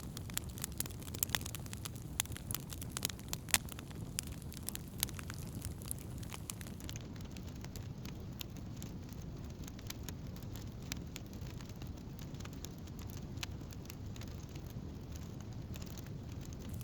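Wood campfire crackling with many sharp pops and snaps over a steady low rumble. The pops are thickest in the first few seconds.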